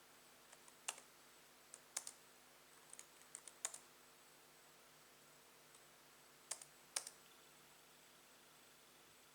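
Sparse key clicks on a laptop keyboard: single presses and a short run of several keys, separated by pauses, over faint room tone.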